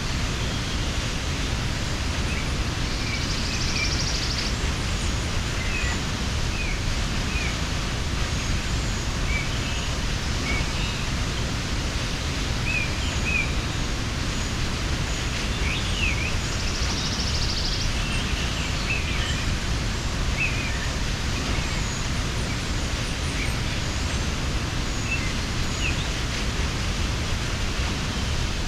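Waterfall rushing in a steady, even roar of falling water, with small birds chirping in short scattered calls over it and a higher buzzing trill three times.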